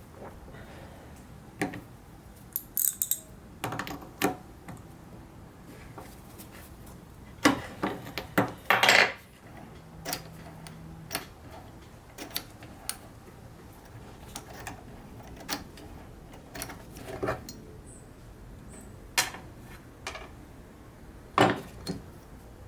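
Metal parts of a bench vise being handled: scattered clinks and knocks, some in quick clusters, with the busiest stretch a little past a third of the way in.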